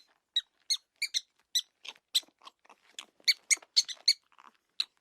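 A small animal squeaking: a quick, irregular run of short, high-pitched squeaks, two or three a second.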